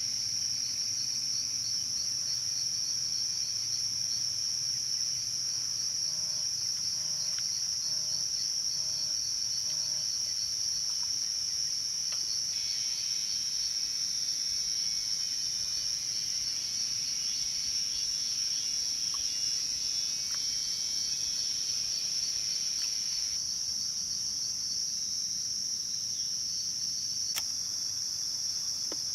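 Steady, high-pitched, unbroken trilling of insects, with one sharp click near the end.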